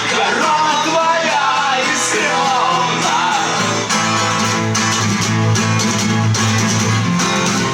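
Guitar strummed live, with a singing voice over roughly the first three seconds; after that the chords ring on steadily.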